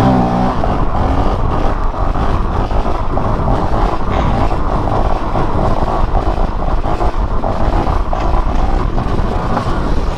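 Dirt-bike engine running steadily under way on a trail, a dense, rough mechanical noise with no pause.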